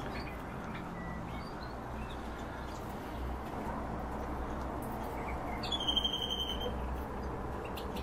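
Small cage birds giving scattered short chirps over steady background noise, with one rapid trill of short high notes about six seconds in, lasting about a second.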